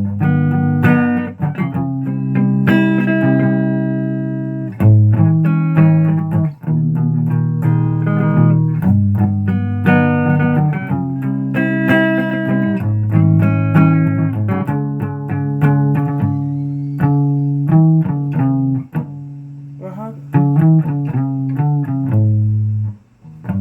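Guitar music: a run of plucked notes ringing over held low notes, with a brief drop near the end.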